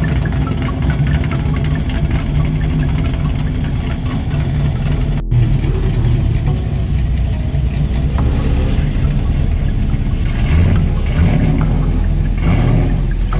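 A car engine running and revving, with a brief break in the sound about five seconds in.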